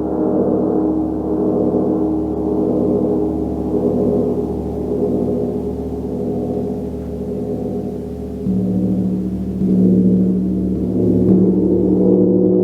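Gong played in a sustained wash of many overlapping ringing tones. About two-thirds of the way in, a fresh stroke brings in a strong low tone and the sound swells louder.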